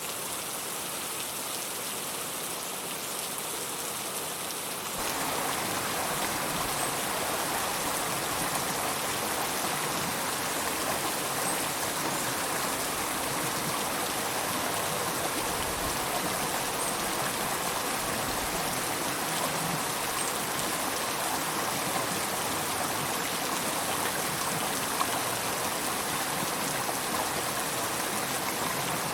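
River water flowing, a steady rushing with no breaks; it grows louder about five seconds in and then holds even.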